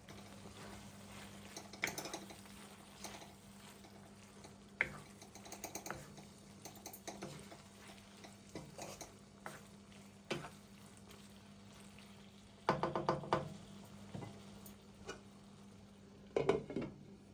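Kitchen work with utensils: irregular clinks, taps and knocks against pots and dishes, with a few louder clattering clusters, over a faint steady low hum.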